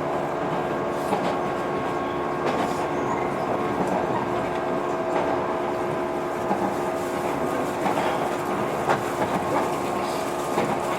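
Running sound inside a JR 115 series electric multiple unit: a steady hum from the motors and gearing over the rumble of the wheels, with scattered clacks as the wheels cross rail joints.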